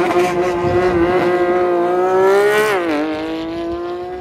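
A sports car's engine accelerating hard, its note climbing steadily, then dropping with an upshift about two and a half seconds in before climbing again, getting quieter as the car pulls away.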